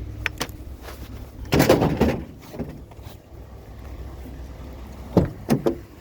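Sharp knocks and a brief clatter of objects being handled, over a low steady rumble. The clatter comes about a second and a half in, and a few knocks come near the end.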